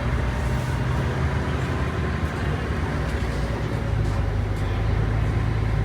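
Diesel bus engine running steadily with a low hum.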